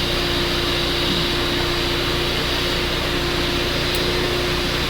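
Steady mechanical hum with an even whoosh and one constant mid-pitched tone, like a running fan or blower.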